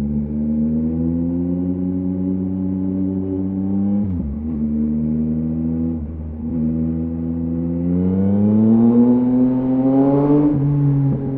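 2023 Yamaha MT-09's inline three-cylinder engine through a LeoVince LV Race exhaust, ridden through changing revs. The pitch rises gently, dips briefly about four seconds in, then climbs steadily for a couple of seconds before dropping sharply just past ten seconds.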